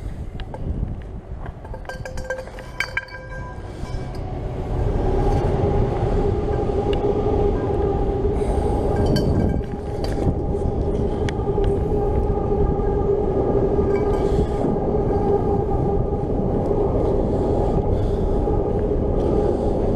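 A few light metallic clinks, then about five seconds in a loud, steady mechanical rumble with a droning hum sets in and keeps on.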